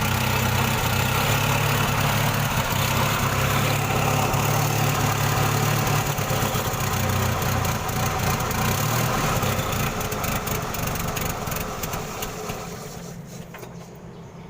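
Forklift engine running steadily, its sound falling away over the last two seconds or so.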